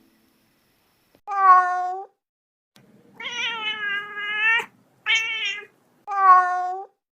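A cat meowing four times, short calls with one long drawn-out meow second.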